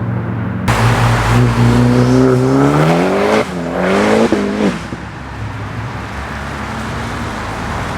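Modified performance car accelerating hard: the engine revs climb steadily, drop sharply at an upshift about three and a half seconds in, climb again briefly, then ease off to a quieter, steadier sound as the car pulls away.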